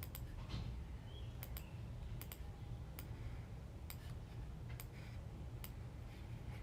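Computer mouse clicking, sharp single and double clicks at irregular intervals, over a low steady hum.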